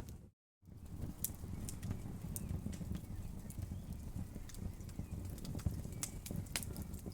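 Wood fire burning in a fireplace: a low steady rumble of flame with irregular sharp crackles and pops from the burning wood. The sound cuts out completely for about a quarter of a second near the start.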